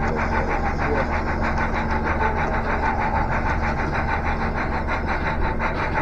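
Model train of N&W 475 running along the layout, with a fast even clicking of about five a second and a steady hum underneath.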